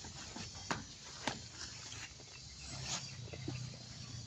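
Faint outdoor ambience of insects chirping, with a few light clicks and knocks.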